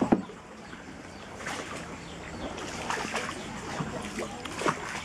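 Paddles dipping and pulling through water alongside a small boat, a splashing stroke about every second and a half over a steady trickle of water.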